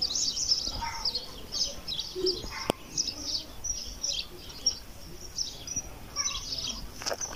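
Small birds chirping: many short, high chirps in quick succession, with a single sharp click a little under three seconds in.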